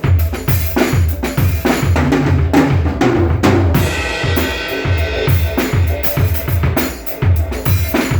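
A drum kit played in a busy, driving groove: repeated bass drum kicks under snare and rim hits, with a ringing cymbal wash about four seconds in.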